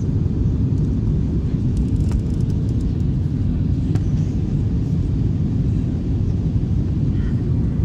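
Airbus A321 airliner in flight, a steady low rumble of engines and airflow, with a few faint clicks.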